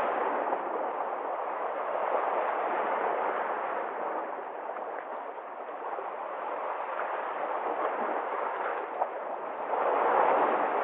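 Sea waves breaking and washing in, the rush swelling and easing, with a louder surge near the end.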